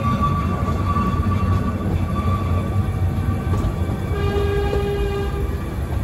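Passenger train running along the track, heard from aboard the carriage: a steady low rumble with faint held tones over it, more of them from about four seconds in.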